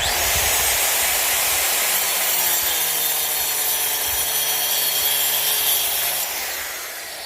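A power tool cutting with a steady, loud, hissing noise that starts suddenly and dies away about six seconds in.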